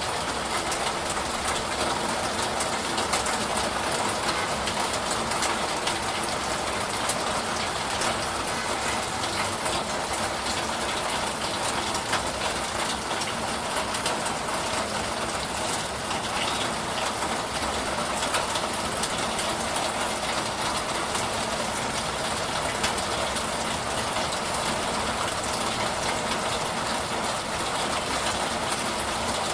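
Steady rain shower, an even hiss of falling rain with scattered faint drop ticks.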